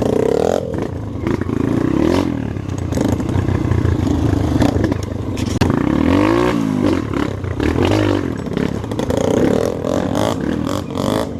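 Off-road motorcycle engine running under load, its pitch rising and falling over and over as the throttle is opened and closed.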